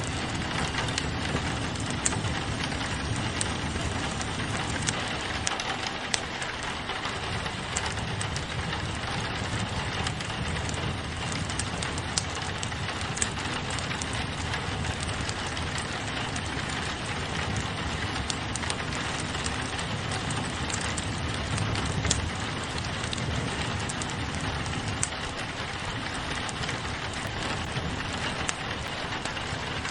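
Steady rain on a window mixed with a crackling wood fire: a constant rain hiss with scattered sharp pops and clicks throughout.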